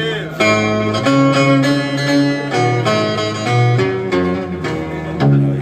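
Music played on plucked string instruments, a melody of held notes that change about every half-second.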